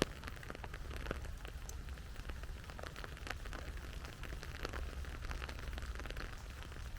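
Steady rain falling, with many individual drops landing close by as separate sharp taps, over a low steady rumble.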